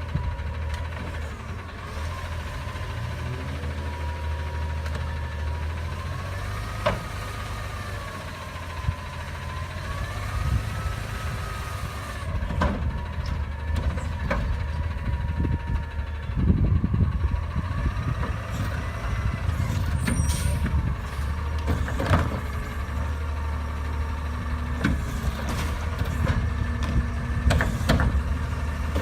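Refuse truck working: its diesel engine runs steadily under a whine that rises and falls in pitch, with several sharp bangs and a stretch of clattering about halfway through.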